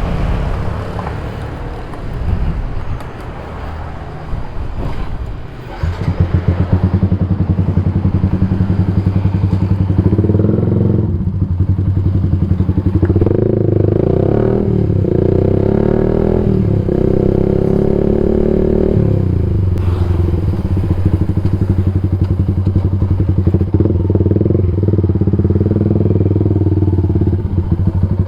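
Yamaha MX King 150's single-cylinder four-stroke engine running through a Rob1 TGA aftermarket exhaust: it comes in much louder about six seconds in, is blipped up and down several times between about ten and nineteen seconds in, then settles back to a steady idle.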